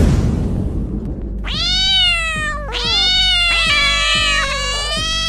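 A quick whoosh, then cats yowling aggressively: one long, bending yowl from about a second and a half in, joined by a second cat's overlapping yowls.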